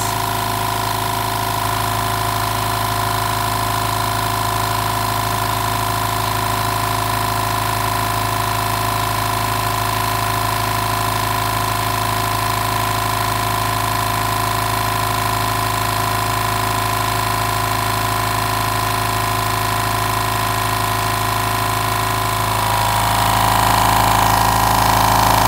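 California Air Tools 8010 ultra-quiet oil-free air compressor running steadily, its motor and pump filling the tank toward the 120 psi cut-out on a first test fill. It gets somewhat louder near the end.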